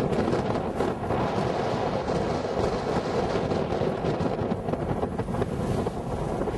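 Wind buffeting the camera microphone: a steady, loud rush with no pauses.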